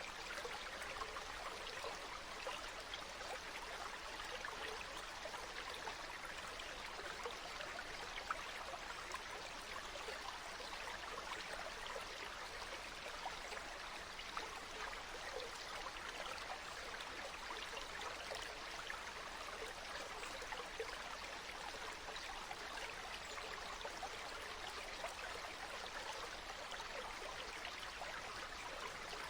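Water flowing steadily over rocks in a stream, a continuous babbling trickle without pause.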